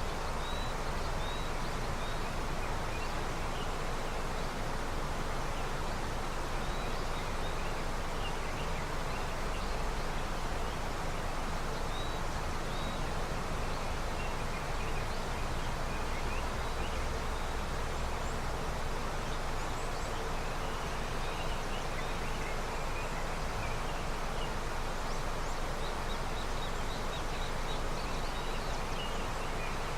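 River running steadily with snowmelt, a continuous wash of flowing water. Small birds chirp faintly now and then, in short high calls, with a run of them near the end.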